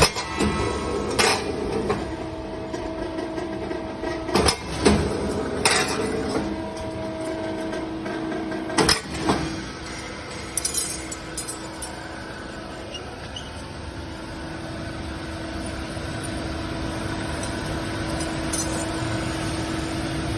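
Automatic wire-forming machinery running with a steady hum, with irregular sharp metallic clanks, most of them in the first half.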